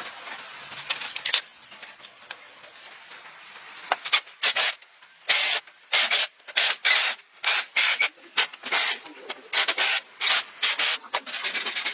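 Repeated rubbing or scraping strokes against a hard surface, like hand sanding. The strokes come roughly one or two a second, starting about four seconds in after a quieter stretch.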